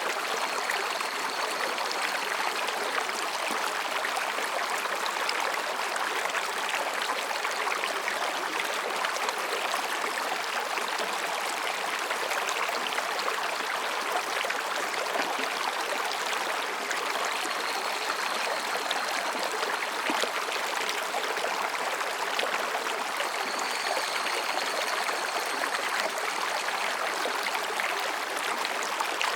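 Mountain stream rushing and babbling steadily over rocks. Faint, high, thin calls of higurashi cicadas rise above the water three times: about a second in, around the middle, and near the end.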